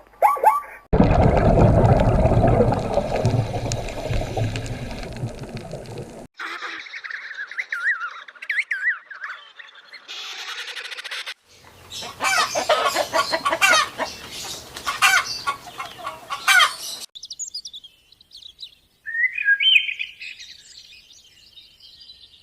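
A run of short bird-sound clips: birds chirping and tweeting in several separate bursts, some dense and rapid. Near the start a loud stretch of rushing noise runs for about five seconds.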